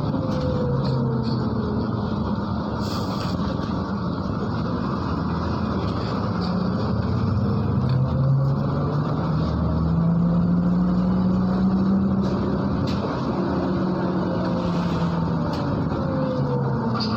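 MAZ-103 city bus engine and drivetrain heard from inside the passenger cabin while driving. The pitch falls early on as it slows, then rises and grows louder about halfway through as the bus accelerates.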